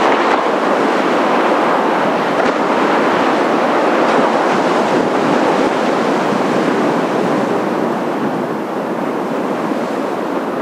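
Jet noise from Blue Impulse's Kawasaki T-4 trainers in formation on a low pass: a steady, loud whooshing rush that swells at the start and holds.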